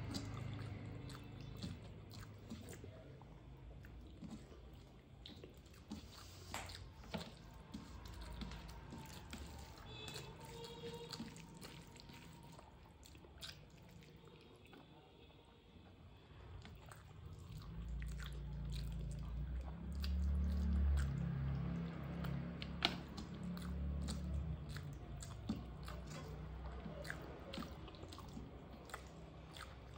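A person chewing big mouthfuls of rice and mutton curry eaten by hand, with wet smacking and clicking mouth sounds and fingers squishing rice on a steel plate. The chewing gets louder and deeper for several seconds past the middle.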